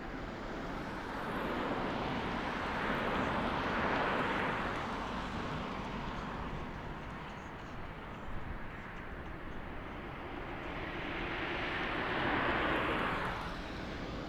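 Jet airliner engine noise swelling and fading twice, loudest about four seconds in and again near the end.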